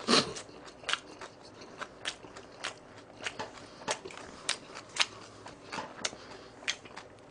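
Close-miked chewing of a mouthful of cold spicy noodles wrapped in seasoned laver: sharp mouth clicks and smacks, irregular, about two a second, the loudest just at the start.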